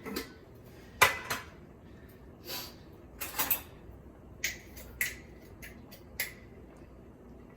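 Kitchen clatter: a series of sharp clinks and knocks of dishes and utensils, the loudest about a second in, with a couple of short scraping sounds in between.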